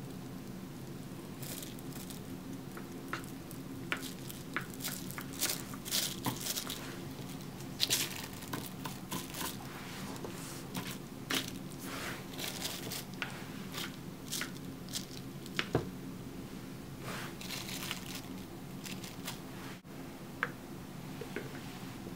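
Irregular crinkling and rustling handling noises, many short crackles in quick succession, over a steady low hum.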